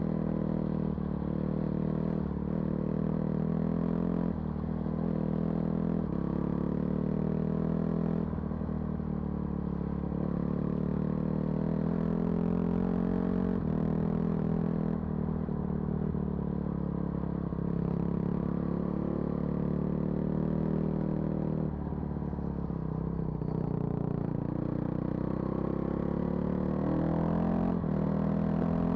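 A vehicle engine running steadily while driving on a rough dirt road. Its pitch rises and drops every few seconds as the throttle changes, with a clattering rattle underneath.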